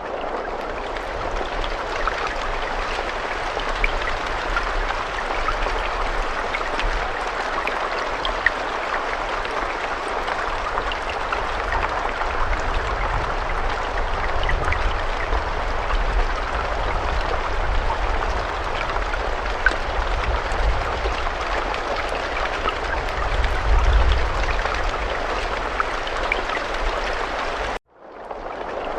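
Steady rain falling, a dense hiss with individual drops pattering through it over a low rumble. Near the end the sound cuts out abruptly for a moment and fades back in.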